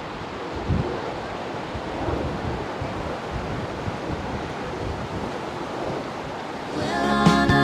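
Gale-force wind rushing past and buffeting the microphone, a steady noise with low gusty rumbles. Music comes in near the end.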